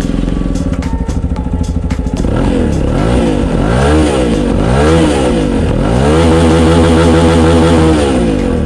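200cc single-cylinder Zongshen motorcycle engine idling, then revved up and down several times in quick blips, held at higher revs for about two seconds, and let fall back toward idle near the end.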